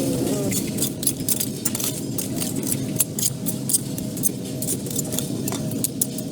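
Many light, irregular clicks and clinks of small hard objects over a steady low rumble.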